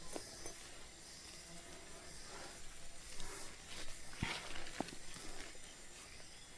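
Faint steady hiss of outdoor ambience, with two sharp clicks about half a second apart a little past four seconds in.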